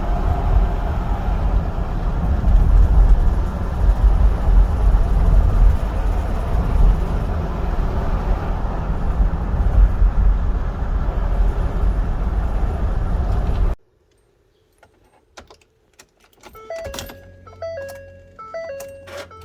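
Ford Explorer under way, a loud steady rumble of engine, road and wind noise, which cuts off suddenly about 14 seconds in. A few seconds later a short chiming melody of repeated notes begins.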